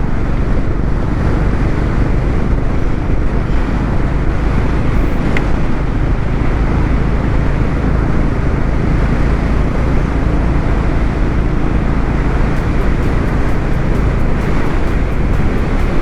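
Motorcycle riding at steady highway speed in a crosswind: a constant heavy rush of wind on the microphone with the engine's low drone beneath.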